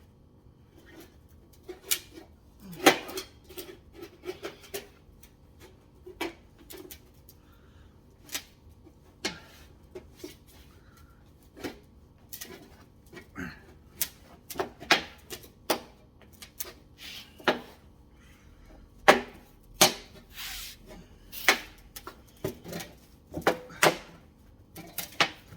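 A 4-inch snap-together sheet-metal dryer vent pipe being worked by hand to lock its seam: irregular clicks, taps and crinkles as the thin metal flexes and catches. They come more often in the second half.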